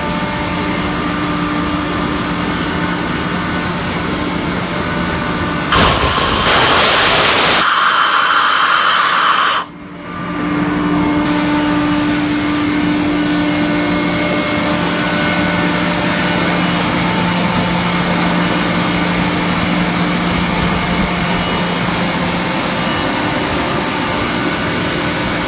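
Sullair 12BS-50L rotary-screw air compressor running steadily with a hum. About six seconds in, a loud rush of escaping air starts suddenly, thins to a high hiss, and cuts off after about four seconds before the steady running returns: the compressor unloading at its 125 PSI set point.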